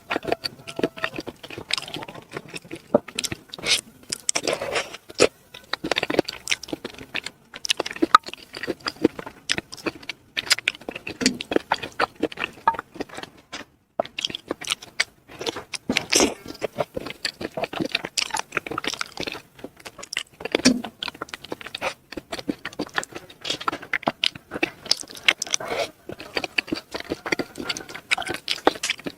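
Close-miked eating of spicy chicken feet: dense, irregular chewing, smacking and crunching clicks, with a few brief gaps.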